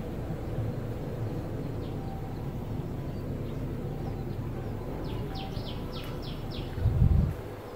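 Low rumbling background noise, with a quick run of about six short, high bird chirps about five seconds in. A dull low thump comes near the end.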